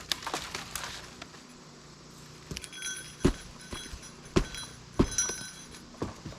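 Sharp knocks and thuds of a man working at a standing tree to knock it down, the three loudest about three, four and a half, and five seconds in, with a faint high ringing between them; the tree stays standing.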